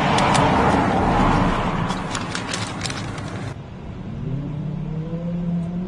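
Vehicle noise: a loud rushing running sound with a few sharp clicks, cut off abruptly about three and a half seconds in, then a steady low motor hum that rises in pitch and holds.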